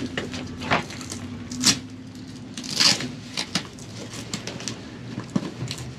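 Canvas tent fabric rustling, with scattered clicks and knocks as tent poles and fittings are handled. A louder scraping rustle comes about three seconds in.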